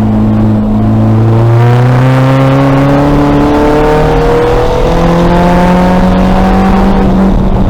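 2000 VW Golf race car's engine pulling hard under acceleration, its pitch climbing slowly and steadily through the gear.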